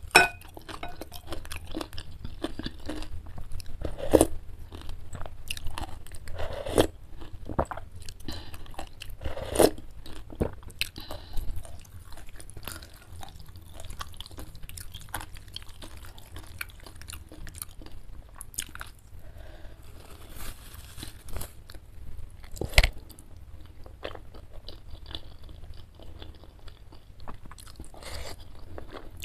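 Close-miked chewing of spicy chicken noodles with chicken meatballs: a steady run of wet, crunchy chewing clicks, with a few louder bites standing out, one about 4 seconds in, one near 10 seconds and the loudest about 23 seconds in.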